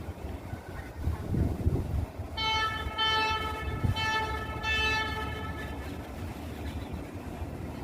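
Light rail train sounding its horn in four short toots over a low rumble of the train.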